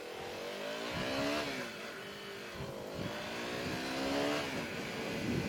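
Motorcycle engine accelerating: its pitch climbs, drops at a gear change about a second in, then climbs again and drops near the end.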